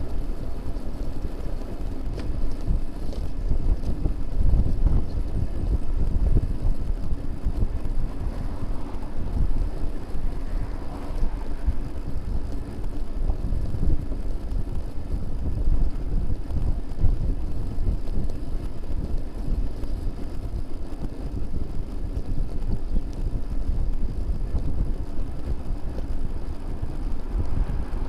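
Wind buffeting the microphone of a rear-facing bicycle camera while riding, a constant fluctuating rumble, with the hum of road and traffic noise beneath it.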